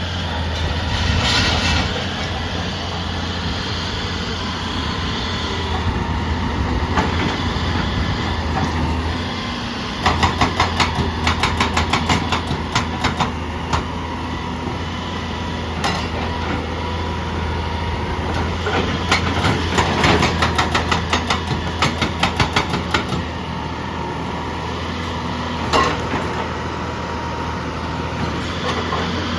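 Heavy diesel machinery running steadily with a low hum, broken by several runs of rapid, evenly spaced sharp knocks a few seconds long.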